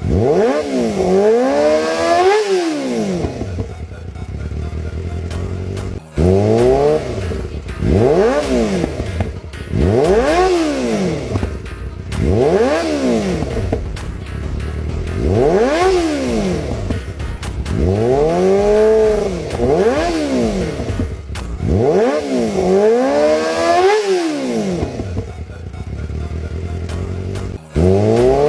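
Superbike engine and exhaust blipped over and over while standing: more than a dozen quick revs, each pitch rising and dropping back, with short spells of idle between.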